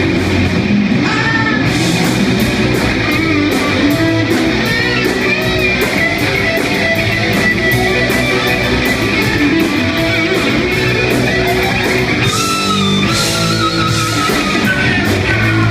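Live heavy rock band playing an instrumental passage: distorted electric guitar with bending lead lines over bass and drums at a steady beat.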